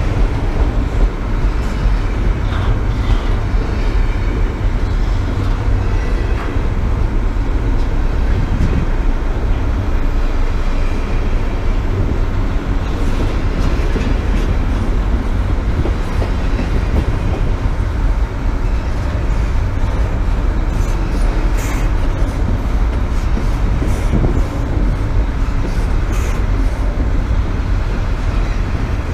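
BNSF train passing on the main line: a steady rumble of wheels on rails, with short sharp clicks now and then in the second half.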